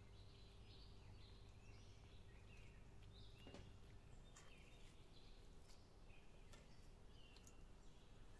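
Near silence: faint outdoor ambience with scattered short bird chirps and a few soft clicks.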